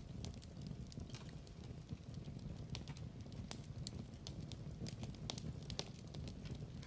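Wood fire crackling in a fireplace: irregular sharp pops and snaps, several a second, over a low, steady rumble of the burning logs.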